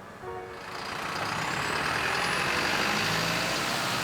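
Jet aircraft engine noise swelling up over the first two seconds and then holding steady, with a thin high whine that climbs steadily in pitch.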